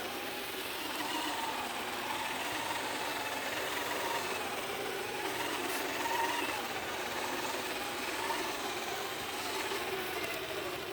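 Traxxas TRX-4 RC crawler's electric motor and geared drivetrain whining as it drives, the pitch wandering up and down with the throttle.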